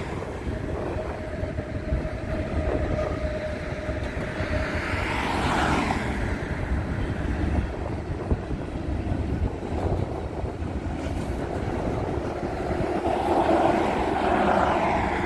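Freight train rolling by: a steady rumble of wheels on rail. A pickup truck passes close by near the end.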